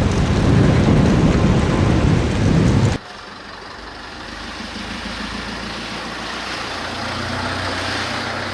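Heavy wind rumble on the microphone that cuts off abruptly about three seconds in, followed by a truck engine running steadily and slowly getting louder.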